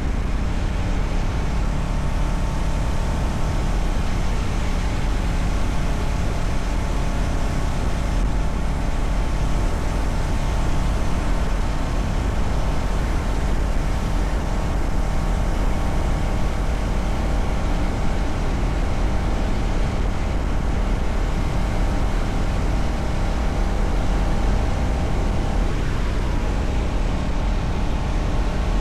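Kawasaki Ninja 650R parallel-twin engine running while riding at a steady pace, with a slight change in the engine note near the end.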